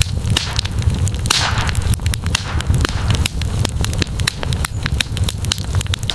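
Wood campfire crackling and popping over a low steady rumble. A short hiss sweeps down in pitch about a second and a half in.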